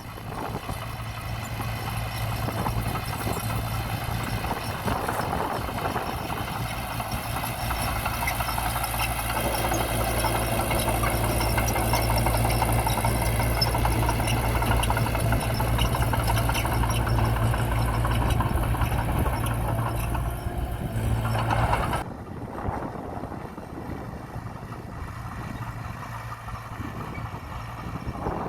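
Diesel engine of heavy earthmoving machinery running steadily, growing louder over the first ten seconds or so. About three quarters of the way through the sound drops abruptly to a quieter, duller engine sound.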